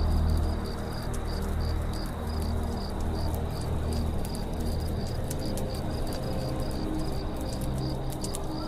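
Campfire crackling, with small sharp pops, over a low steady rumble, while crickets chirp in an even pulse of about four chirps a second.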